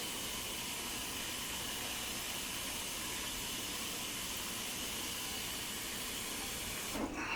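Water running from a faucet into a container in a steady hiss, shut off about seven seconds in.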